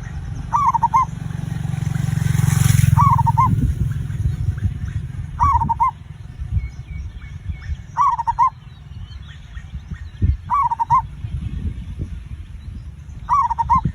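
Zebra dove (perkutut) cooing: six short, rippling phrases repeated about every two and a half seconds. A low rumbling swell of noise rises and peaks about three seconds in, louder than the calls.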